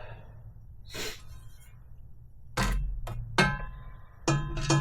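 Metal exhaust parts being handled: a soft click, then several sharp clanks from a little over halfway through, each leaving a ringing metallic tone over a low hum.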